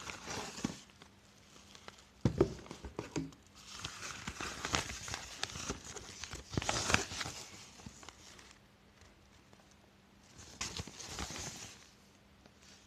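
Irregular bouts of rustling and crinkling, with a few light knocks about two to three seconds in. No motor is running.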